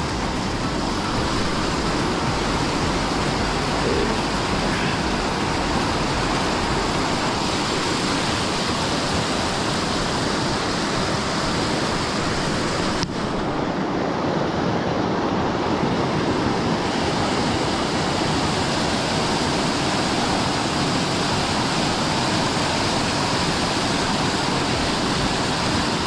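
Steady rushing roar of a waterfall and a river in flood.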